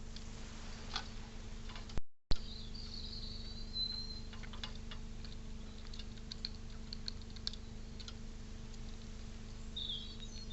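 Steady low electrical hum with scattered light ticks and clicks, and a few short high bird chirps. There is a sharp pop and a break about two seconds in; the chirps come just after it and again near the end.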